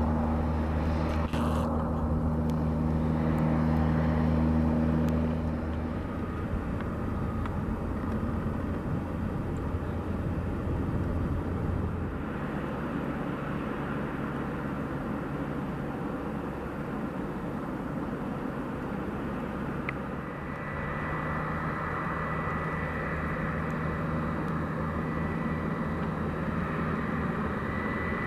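Steady engine drone mixed with outdoor noise. A low steady hum gives way to a plain rush about six seconds in, and from about twenty seconds the hum returns with a thin steady high whine.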